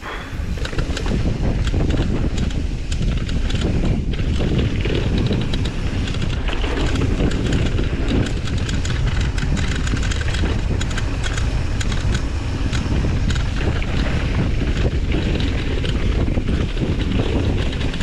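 Wind buffeting the camera microphone on a fast mountain-bike descent, with steady rattling and knocking from the bike over rough ground. It comes up sharply in the first second, then stays loud.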